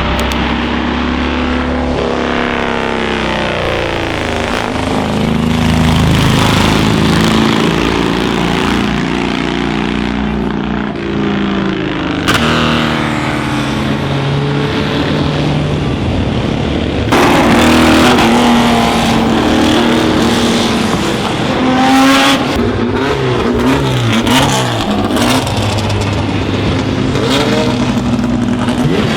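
Historic racing and sports car engines accelerating hard, their pitch climbing and dropping again and again as they shift through the gears. The sound changes abruptly several times, as from one car to another.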